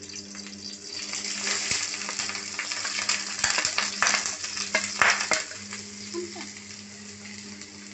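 Chopped onion sizzling in hot ghee and oil in a kadai while being stirred, with a spoon knocking and scraping against the pan. The sizzle is loudest around the middle and eases off near the end.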